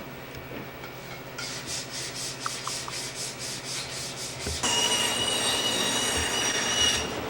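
Workshop hand work: even rubbing or sanding strokes, about four a second. About four and a half seconds in, a power tool starts with a steady high whine that stops shortly before the end.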